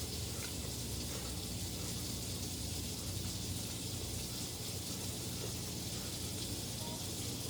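Steady, even background hiss with a faint low hum, and no distinct sounds standing out.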